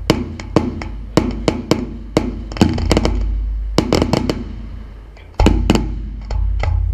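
Music with a drum beat and a steady bass, overlaid by a run of sharp cracks and bangs from fireworks, some with a short echoing tail. A cluster of loud bangs comes about five and a half seconds in.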